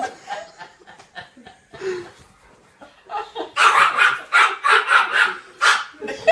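A dog barking repeatedly, about three barks a second, from about three and a half seconds in.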